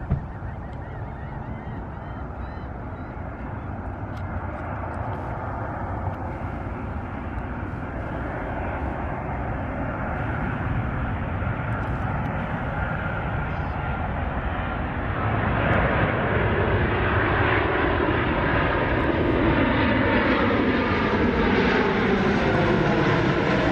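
Jet airliner approaching and passing low overhead: its engine noise builds steadily and gets much louder about two thirds of the way in. Near the end, the engine whine tones glide down in pitch as it goes by.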